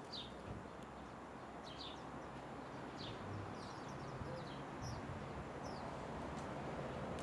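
Small birds chirping: short, high, falling chirps scattered through, over a steady outdoor background hum.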